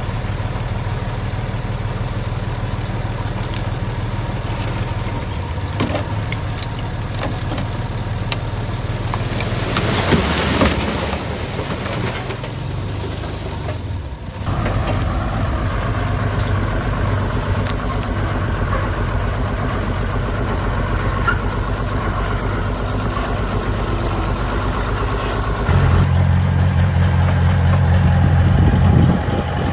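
Diesel engines of earthmoving machinery running steadily, with a brief hiss about ten seconds in. Near the end the engine sound becomes louder and deeper.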